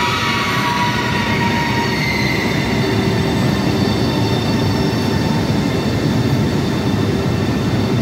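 Italo high-speed train running past along the platform of an underground station: a steady, loud rumble of wheels on rails, with several high whines that glide slowly downward over the first couple of seconds.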